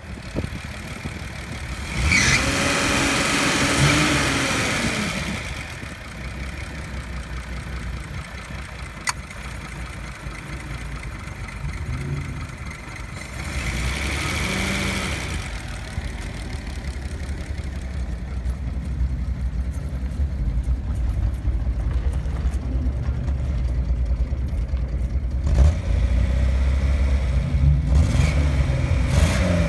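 1972 Datsun 240Z's inline-six engine idling, revved up and back down twice for a few seconds each. It gets louder near the end, with a couple more short revs.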